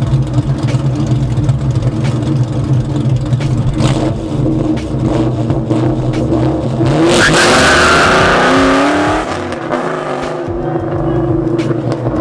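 Ford Mustang GT's 4.6-litre two-valve V8, with PI heads, a Comp Cams 262 cam, long-tube headers and SLP LoudMouth exhaust, idling, then revving up loudly for about two seconds at less than full throttle about seven seconds in, before dropping back to idle.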